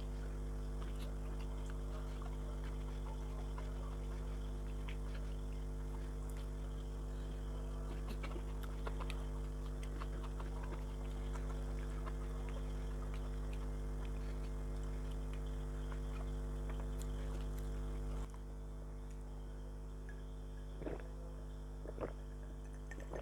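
Eating sounds: scattered small clicks, crunches and smacks of chewing and handling fried food, over a steady low electrical hum that drops a little about eighteen seconds in.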